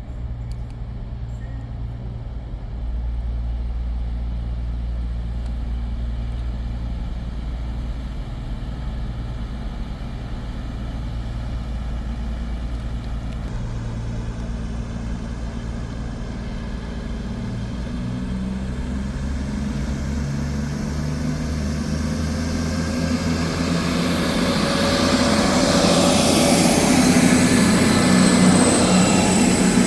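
A railway engine runs with a steady low hum. Over the last ten seconds or so it grows steadily louder, with a rising rumble and hiss, as a train draws near.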